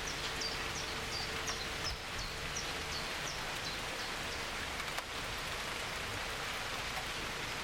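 Heavy rain falling steadily, with a bird chirping repeatedly through the first half: short high notes that drop in pitch, about two a second.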